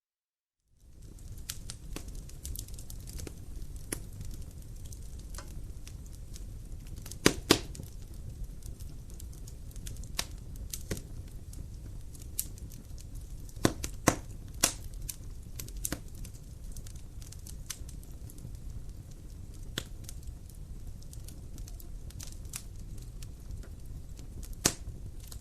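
Wood fire burning in a fireplace: a steady low rumble of flames with irregular sharp crackles and pops, a few of them much louder, coming in small clusters. The sound comes in just under a second in, after a short silence.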